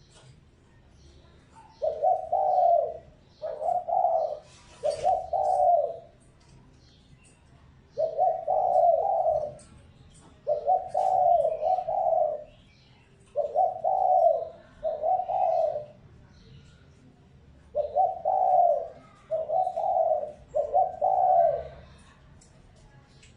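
Spotted dove cooing, a decoy bird's call used to lure wild doves: about five phrases of two or three low coos each, repeated every few seconds with short pauses between.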